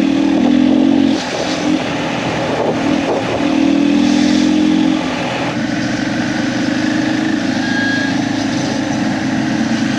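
Motorcycle engine running under way, with wind and road noise. The engine note shifts a few times in the first half, then holds steady.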